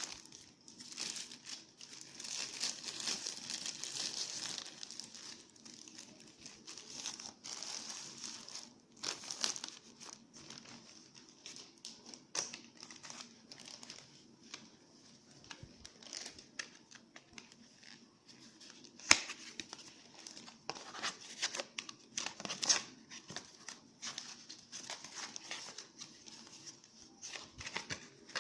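Plastic packaging crinkling and tearing as a smartphone is unboxed by hand, with scattered sharp clicks and taps from the handling. The crinkling is densest in the first few seconds, then comes in shorter bursts.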